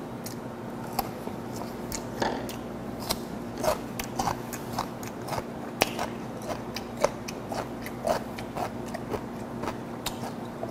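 Close-up chewing of a piece of fermented skate (hongeo): wet, irregular clicks and smacks of the mouth working on chewy flesh, a few a second, over a steady low hum.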